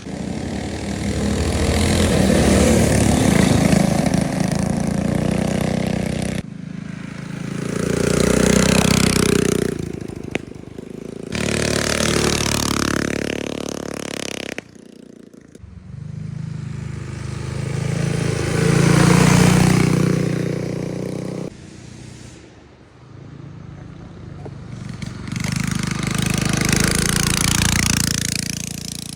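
Small minibike engines running and revving, their pitch swelling and falling as the bikes accelerate and pass. The sound changes abruptly several times.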